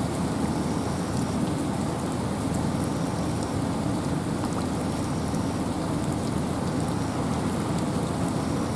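Wind and rain in a forest: a steady, dense rain hiss with a low rush underneath and scattered drops ticking.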